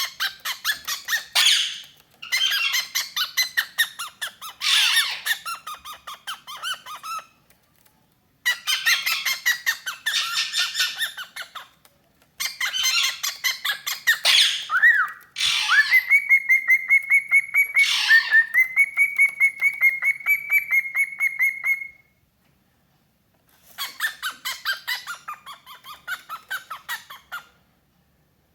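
Cockatiel chattering: rapid runs of short chirps lasting a few seconds each, with a long, steady whistle held for several seconds about halfway through.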